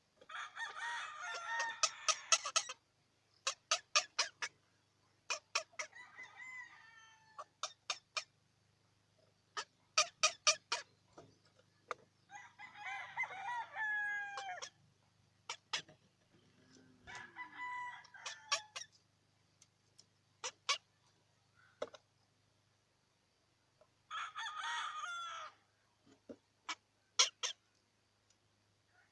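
A bird giving long, pitched calls, about five of them, each lasting one to two and a half seconds, with quick runs of sharp clicks in between.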